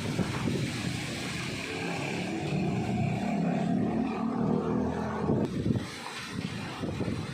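An engine drone swells and then fades over about five seconds, over a steady rushing noise.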